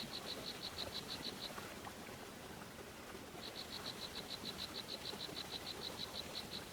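A high, rhythmic trill from a calling animal: evenly spaced chirps at about seven a second. It comes in two runs, a short one at the start and a longer one from about halfway in, over a faint outdoor hiss.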